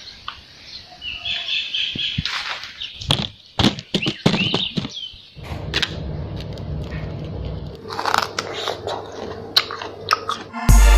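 Birds chirping, with scattered sharp knocks and rustles, over the first half. A steady low hum follows from about halfway, and music starts just before the end.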